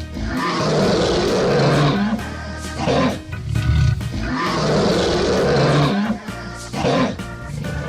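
Two long, growling dinosaur roars, one after the other, laid over background music.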